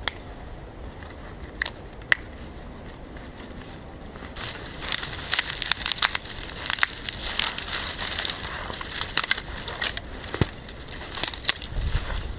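Dry grass and small twigs crackling and rustling as they are handled and crushed: a few scattered clicks at first, then from about four seconds in a dense, continuous crackling.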